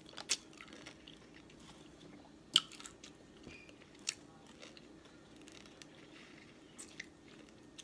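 Close-miked eating of a seafood boil: quiet chewing and mouth sounds, with a handful of sharp clicks or cracks scattered through, the loudest about two and a half seconds in.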